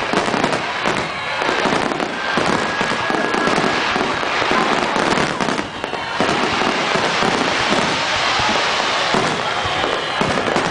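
Fireworks display: a dense, continuous barrage of crackling and popping shell bursts, with a thin whistle heard briefly about two seconds in.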